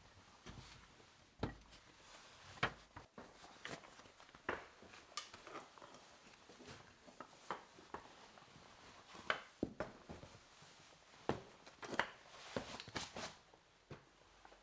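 Scattered clinks and knocks of metal tools and parts being handled, some ringing briefly.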